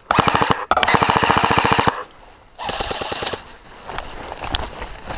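Airsoft rifle firing on full auto in three rapid bursts, the first two almost back to back, the third shorter after a brief pause.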